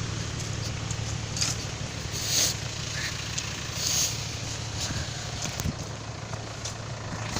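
Vehicle engine running steadily as it drives through deep mud, with a few brief knocks and noisy bursts along the way.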